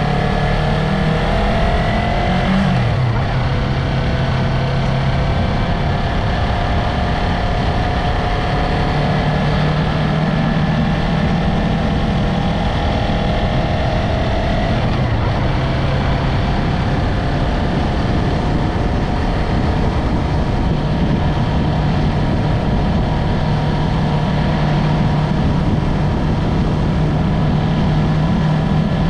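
Yamaha MT-03 motorcycle's parallel-twin engine under way, revs rising in the gears with drops at shifts about 3 and 15 seconds in, then running steadily, over heavy wind and road rumble.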